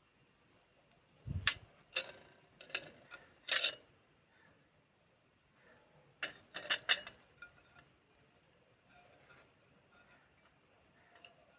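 Earthen clay pot being crushed: sharp, gritty crunches in two bursts, about a second in and again about six seconds in, with faint crumbling crackles between.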